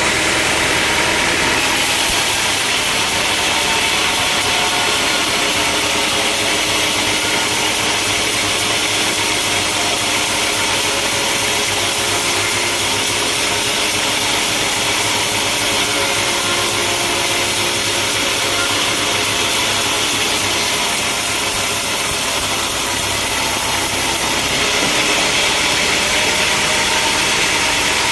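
Sawmill machinery running steadily, with a saw cutting through a log from about two seconds in until a few seconds before the end, when the sound settles back to the running engine.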